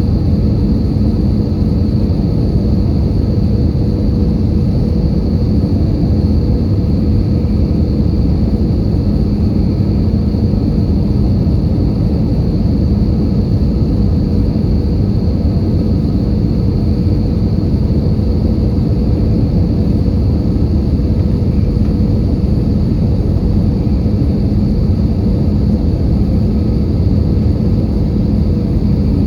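Airbus A320 passenger cabin noise in flight: a steady low rumble of engines and airflow, with a thin steady whine above it.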